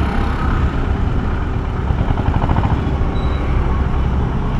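Steady motorcycle and road-traffic noise, with a low wind rumble on the microphone.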